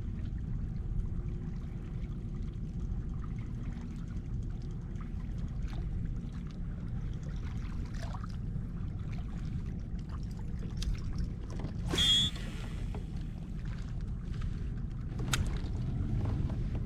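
Water sloshing and trickling around a kayak, over a steady low rumble, with scattered small clicks and knocks. About twelve seconds in there is one brief, sharp, louder sound, and another sharp click a few seconds later.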